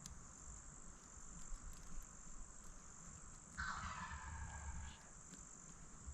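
Faint, steady high-pitched insect trill, typical of crickets. About three and a half seconds in, a louder noise lasts just over a second.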